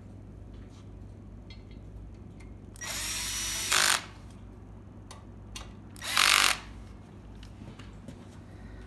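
Power drill running in two short bursts of about a second each, the first about three seconds in and the second about six seconds in, with light clicks of handling between them, over a low steady hum.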